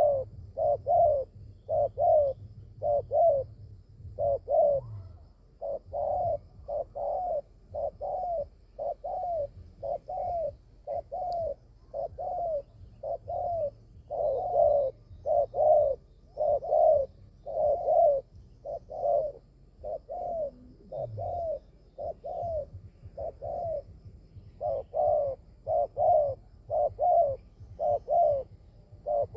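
Spotted dove (tekukur) cooing: a long run of short, repeated coo notes, about two a second, with a couple of brief pauses.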